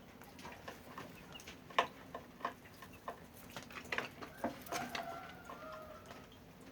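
Chickens clucking, with short pitched calls about halfway through, among scattered light clicks and knocks.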